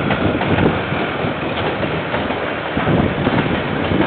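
KiwiRail train rolling past, a steady rumble with irregular clatter from the wheels on the rails, picked up by a security camera's microphone with some wind noise.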